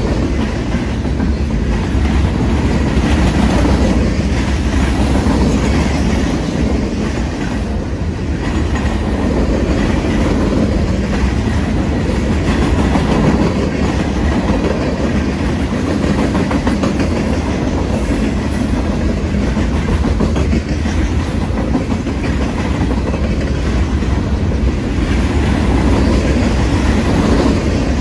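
Enclosed autorack cars of a Union Pacific freight train rolling past close by: steel wheels running on the rails, a loud and steady rolling noise.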